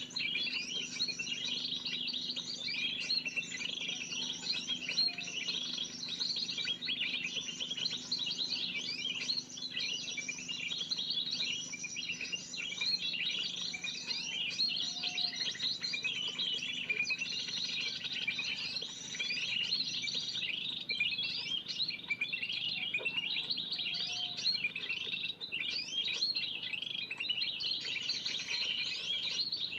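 A dense, continuous chorus of many small birds chirping and twittering with no pauses: a 'burung ribut' (noisy flock) lure call, used to draw in spiderhunters for trapping. A faint steady low hum runs beneath it.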